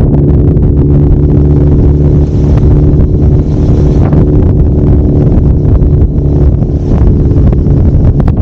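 Kawasaki Zephyr 750's air-cooled inline-four engine running at a steady pitch while riding, with wind buffeting the microphone.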